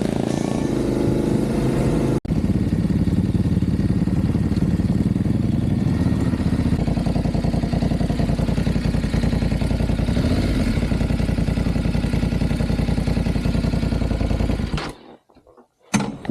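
Motorcycle engine running steadily under way, its firing pulses rapid and even. It breaks off for an instant about two seconds in and cuts off suddenly near the end.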